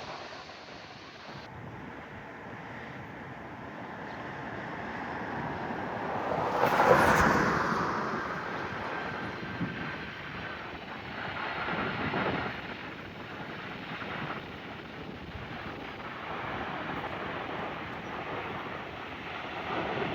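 Jet airliner engine noise from a passing arriving aircraft, swelling to its loudest about a third of the way in and then fading, with wind buffeting the microphone in gusts.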